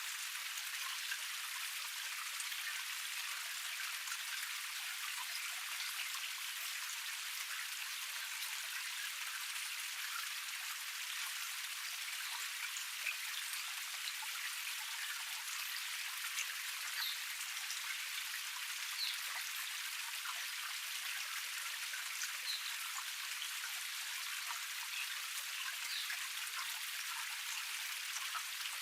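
Water of a small forest waterfall cascade splashing and trickling over rock in a steady rush, dotted with small bright splashes and drips.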